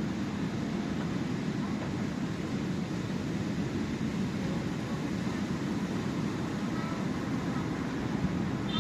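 Steady low rush of the sea, waves and wind blending into an even rumble.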